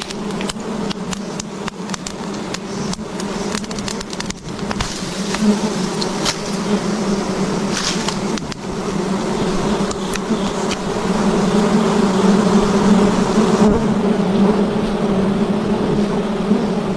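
A swarm of wild honeybees buzzing around their comb: a dense, steady drone that grows louder from about ten seconds in. Scattered sharp clicks and knocks sound through the first half.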